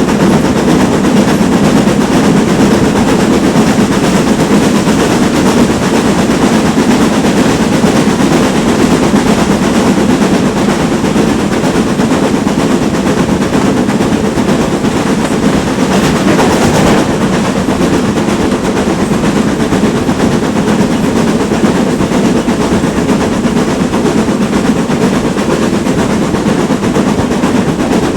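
GWR Manor-class steam locomotive working hard: a loud, fast, continuous exhaust beat over the running of the train.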